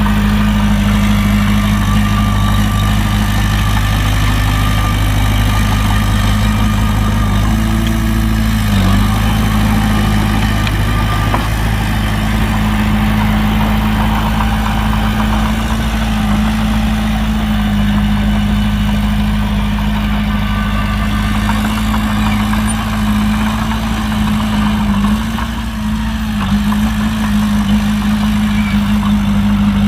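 Heavy diesel engine of earthmoving equipment running steadily at a constant speed, with brief small dips in pitch about nine seconds in and again near the end.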